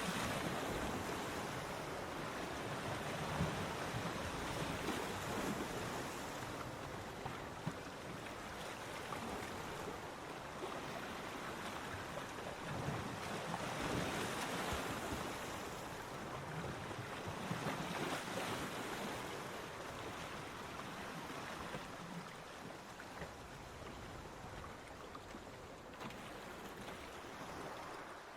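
Ocean waves washing onto a beach, rising and falling in slow surges every few seconds, with wind noise on the microphone.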